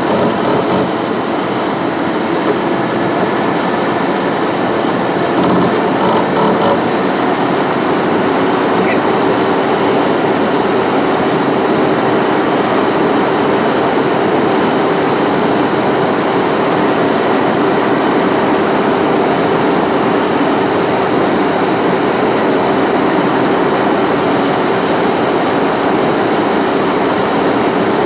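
Car driving at steady highway speed: continuous tyre and road noise with a faint steady hum underneath.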